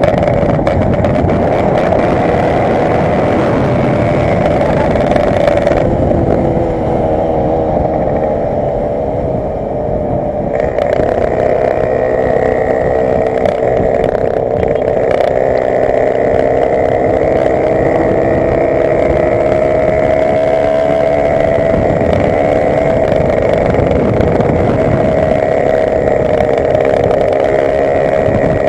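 Yamaha RX-King's 135cc two-stroke single-cylinder engine running through an aftermarket sport exhaust, its note wavering up and down with the throttle. A few seconds in it eases back for several seconds, then picks up again.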